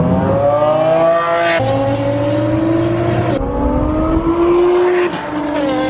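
Loud car engines accelerating hard, the pitch rising steadily through each stretch, then breaking off suddenly and starting again lower about one and a half, three and a half and five and a half seconds in.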